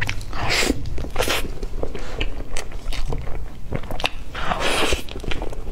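Close-miked biting and chewing of a soft cream-filled bun: wet mouth clicks and smacks throughout, with a few short louder bursts of noise.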